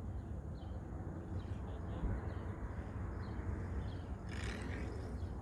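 Outdoor background: a steady low rumble with faint, scattered high bird chirps, and a brief soft hiss about four and a half seconds in.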